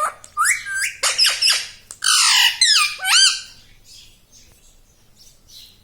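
Pet green parrot giving a quick run of squawks and screeches, with sharply sweeping cries and one harsh, rasping call, loudest in the first three seconds; it then goes mostly quiet.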